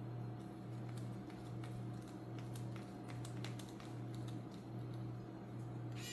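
Scattered light clicks and ticks of small RC car parts and screws being handled, over a steady low hum. Right at the end a high hiss with thin whining tones comes in.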